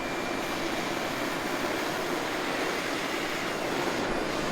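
Old chainsaw's small two-stroke engine running steadily, just revived with new fuel hoses and a new primer bulb.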